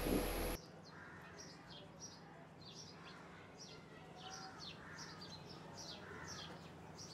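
Music cuts off about half a second in, leaving small birds chirping: many short, high, falling chirps over and over, faint, over a low steady hum.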